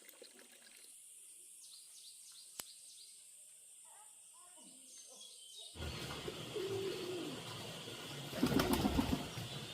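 Birds calling, with a short pitched call and a loud rustling burst near the end, after a faint, quiet stretch with a single click.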